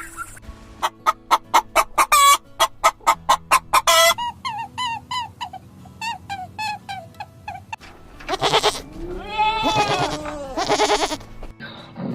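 Farmyard animal calls: a chicken clucking rapidly, about three to four clucks a second, followed by softer repeated calls. After that comes a goat bleating three times in long, wavering calls.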